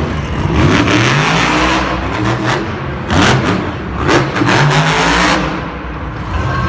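Monster truck engine revving up and down several times in a loud arena.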